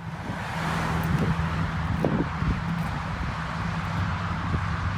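Car engine idling steadily under outdoor noise, with a few short knocks about one to two and a half seconds in.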